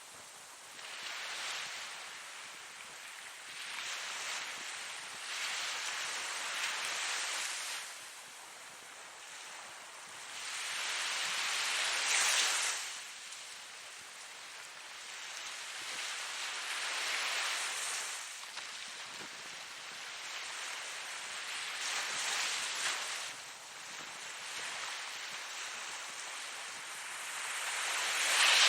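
Ocean surf washing in, a steady hiss that swells and eases with each wave every few seconds, with the biggest waves breaking about twelve seconds in and near the end.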